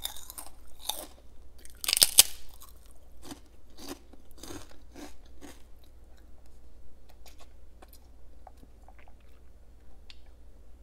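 Crisp prawn crackers being bitten and chewed, with the loudest crunches about two seconds in, then smaller chewing crunches that grow quieter.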